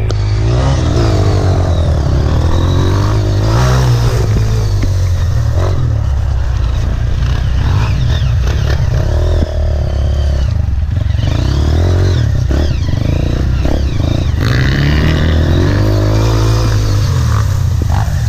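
Single-cylinder four-stroke Honda trail-bike engine heard from onboard, revving up and dropping back again and again as it rides rough trail, with clattering knocks from the bike and a steady low rumble underneath.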